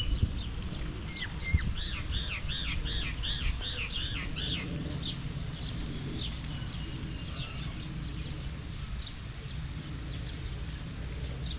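Birds chirping and calling, with a run of about seven quick rising-and-falling notes about two seconds in, over a steady low background rumble.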